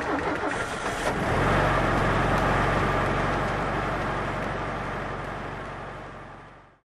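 A car engine starts up about a second in and runs steadily, then fades out near the end.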